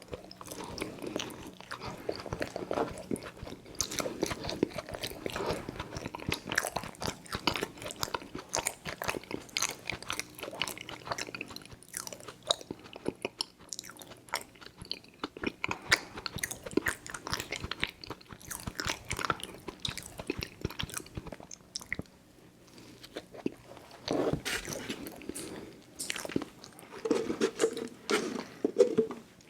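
Close-miked chewing and mouth smacking on chewy fruit candy, with wet sticky clicks coming thick and irregular and a brief lull about two-thirds of the way through.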